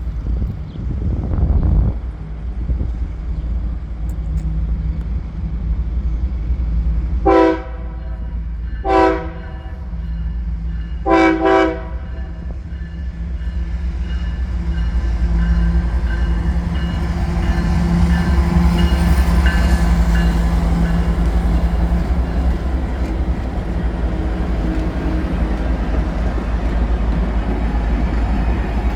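CSX diesel locomotive sounding its air horn four times, two separate blasts then two close together, over a steady engine drone. The rumble of the train then builds and stays loud as it passes.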